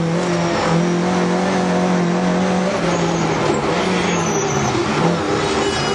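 Rally car engine running hard, heard from inside the cabin, with road and tyre noise. Its pitch dips briefly about halfway through and again near the end, then climbs back.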